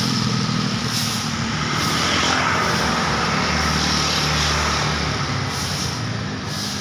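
Road traffic passing: a steady wash of engine and tyre noise from vehicles going by, with a deeper rumble from a heavier vehicle in the middle that eases a little near the end.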